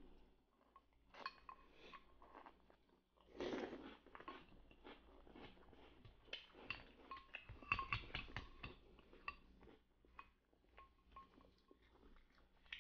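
Faint chewing of cereal and milk, with scattered small clicks and taps of spoons against the bowls.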